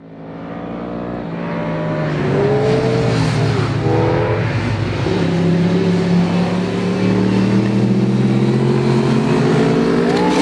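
Sport motorcycle engines running at high revs, their pitch climbing and dipping as the throttle opens and closes. The sound swells over the first couple of seconds, then holds steady.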